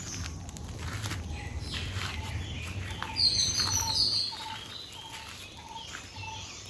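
Birds chirping: a short note repeated about twice a second and a brief burst of higher, brighter chirps in the middle, over a faint low steady hum.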